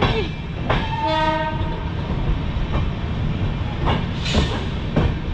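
Passenger train moving out of a station, heard from an open coach doorway: steady rumble of the coach, with wheels clacking over rail joints now and then. About a second in, a locomotive horn sounds once for about a second.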